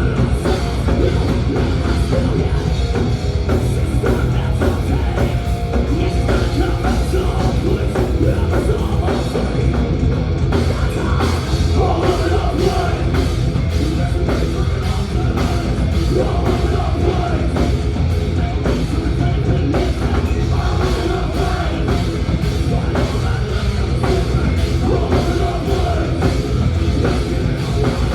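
Thrash metal band playing live, with distorted electric guitars, bass and a pounding drum kit in fast, even strokes.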